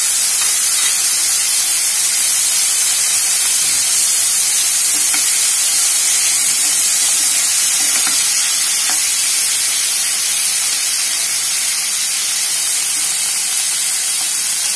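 Freshly added chopped vegetables sizzling loudly in hot oil in a frying pan over a high flame, stirred with a wooden spatula that knocks faintly against the pan now and then. The sizzle eases a little near the end.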